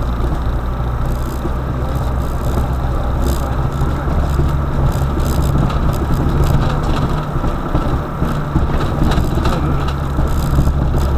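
Car on the move: a steady low engine drone with road and tyre noise, with a few faint clicks over it.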